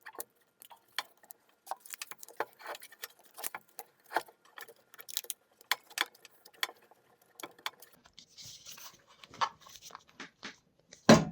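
Scattered light clicks and taps of hands working a rubber gasket onto a dust-collection port, with a stretch of soft rubbing about eight seconds in and a louder knock near the end.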